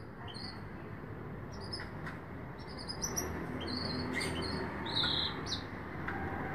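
Small birds chirping: many short, high chirps scattered through, the loudest about five seconds in, over a low steady background noise.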